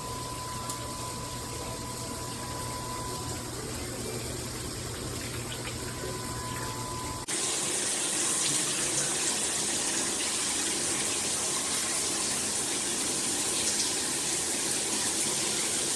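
Water spraying steadily from a Cobbe handheld shower head. About seven seconds in, the sound switches abruptly to a louder, hissier spray.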